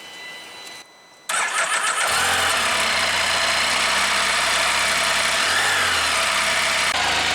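2018 Can-Am Spyder F3-T's Rotax 1330 three-cylinder engine started on its electric starter about a second in, catching almost at once and settling into a steady idle, with a brief rise in revs about halfway. It is the first start after an oil change, run so the oil level can be checked.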